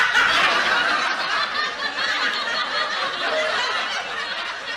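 A crowd laughing, a dense mass of many voices that fades toward the end.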